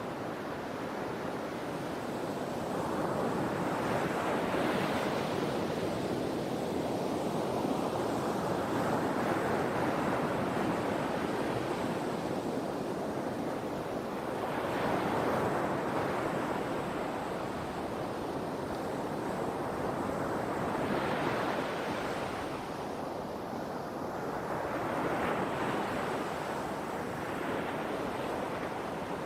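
Sea waves breaking and washing on the shore, the surf swelling and easing every five or six seconds.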